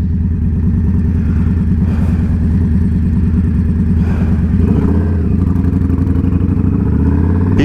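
Indian Scout Bobber V-twin motorcycle engine running steadily under way, its pitch rising a little about halfway through.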